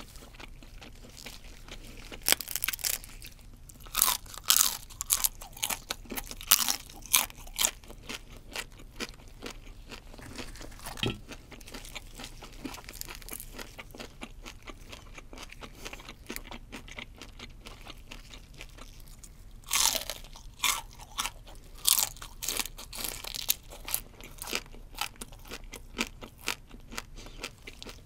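Close-miked crunching and chewing of deep-fried shrimp. Crisp crunches come in two runs, the first starting a couple of seconds in and the second about two-thirds of the way through, with quieter chewing between.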